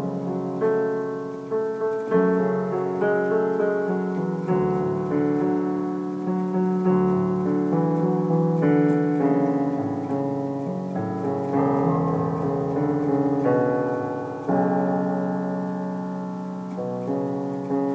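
Piano music: notes and chords struck one after another, each ringing and slowly fading, with a last chord near the end left to die away.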